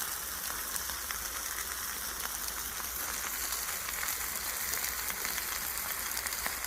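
Chicken sizzling on a wire grill over a wood fire: a steady hiss with many small crackles as fat drips and cooks.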